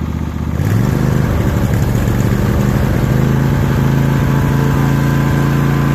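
Craftsman DLT3000 lawn tractor engine running at low speed, then throttled up about half a second in and holding a steady higher speed. It runs steadily with its carburetor's stuck float freed.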